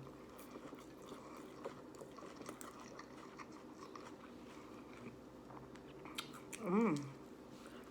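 Close-up chewing of a mouthful of grilled chicken lettuce wrap, soft wet crunches and clicks of the mouth. Near the end comes a short hummed voice sound that bends up and down, an appreciative "mmm".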